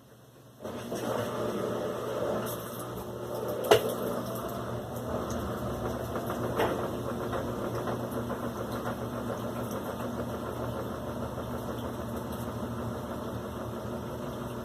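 Electrolux LAC16 washing machine switching on and running with a steady mechanical hum, with a sharp click a few seconds in and a lighter one a few seconds later; it cuts out at the end.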